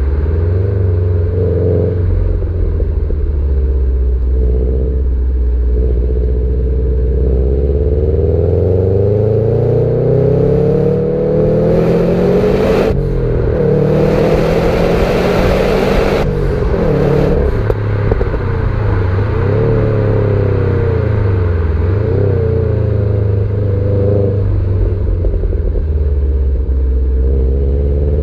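Subaru Impreza STI's turbocharged flat-four running through its standard exhaust while driving, the engine note rising and falling with the revs and climbing steadily for several seconds near the middle. A loud rushing noise rides over it for about three seconds midway.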